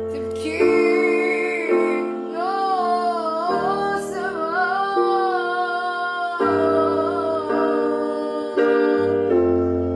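A woman singing a slow, wavering melody over piano chords struck roughly once a second; the voice drops out after about six and a half seconds, leaving the piano.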